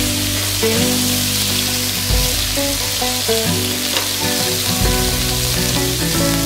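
Minced pork sizzling in hot oil in a frying pan as it is stirred with a silicone spatula, over background music.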